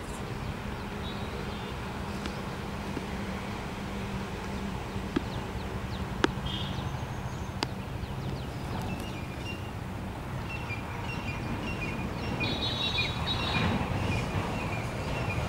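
Small birds chirping in short repeated high notes, busiest in the second half, over a steady low hum and rumble, with a few sharp clicks.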